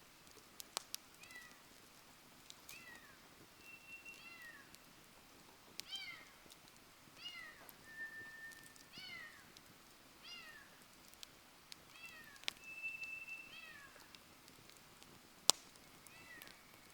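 Wood fire crackling with occasional sharp pops, under a repeated series of short, falling, squeaky high notes and a few brief steady whistles.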